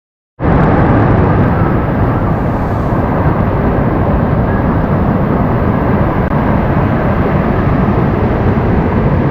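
Waterfall rushing close by: a loud, steady roar of falling water, heaviest in the low rumble. It starts abruptly just after the beginning, as the clip cuts in.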